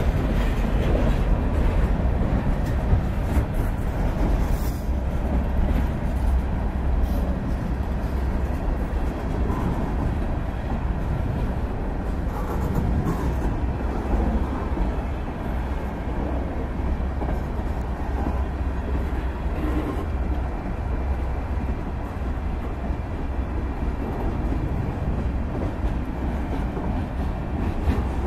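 Freight cars of a mixed freight train, hoppers and boxcars, rolling past at close range. Steel wheels make a steady rumble on the rails, with a few sharp clanks.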